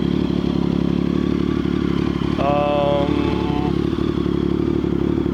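Triumph Speed Triple's 1050 cc three-cylinder engine idling steadily through shortened Mivv Suono mufflers. A brief steady tone sits over the idle about two and a half seconds in.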